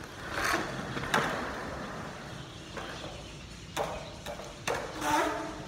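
Skateboard rolling on concrete in several swells, with a couple of sharp clacks of the board hitting the ground near the end.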